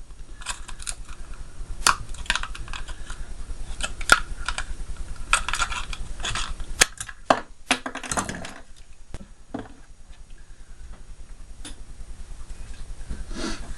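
Light clicks, taps and clatter of hand tools and small plastic and metal fridge parts being handled during disassembly, with a few brief scrapes between them.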